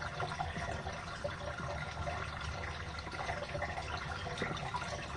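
Water running steadily, with small splashes and drips.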